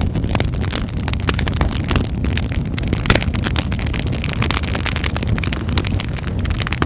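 Wood fire in a fireplace crackling: dense, irregular pops and snaps over a steady low rumble of the flames.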